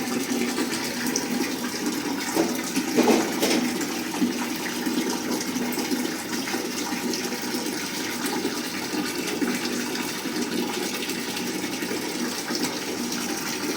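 Water running in a steady rush, with a few brief knocks about three seconds in.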